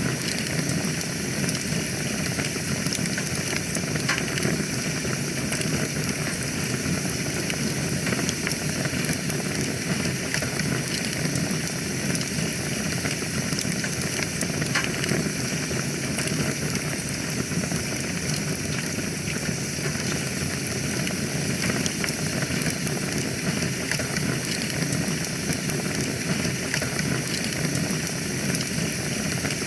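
Wood fire burning in a fireplace, crackling steadily with many small, irregular pops over a low rumble and hiss of the flames.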